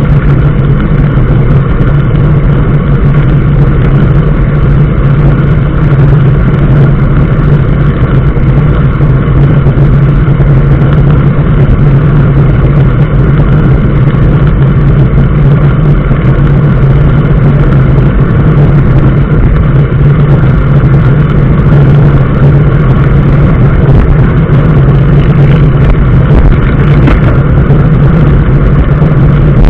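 Vehicle engine and road noise while driving, a loud, steady low drone.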